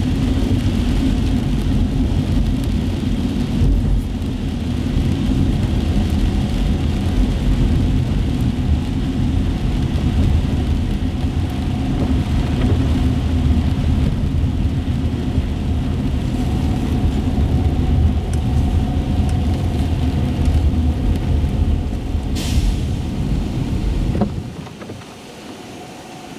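Road noise from a car driving on wet streets: a steady low rumble of engine and tyres on wet pavement, heard from inside the car. A brief hiss comes about 22 s in, and the rumble falls away sharply about 24 s in.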